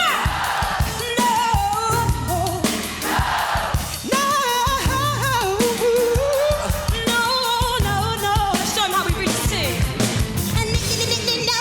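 Live pop band with drums and bass behind wordless sung vocal runs that bend and waver in pitch.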